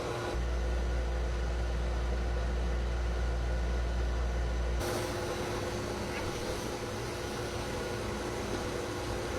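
Blow dryer running steadily, blowing air over a cat in a drying cage. A deep hum under it drops away about five seconds in while the airflow noise carries on.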